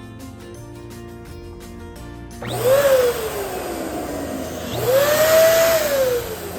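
Electric balloon inflator run twice for about two seconds each, starting about two and a half seconds in: a rush of air with a motor whine that rises quickly, then sinks as the motor winds down.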